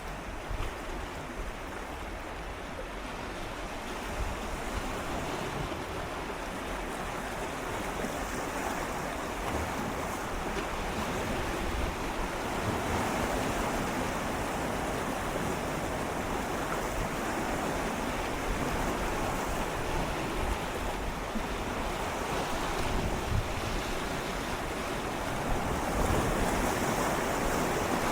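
Gentle sea waves swirling and lapping against shoreline rocks, a steady wash that swells and eases slowly, with some wind rumble on the microphone.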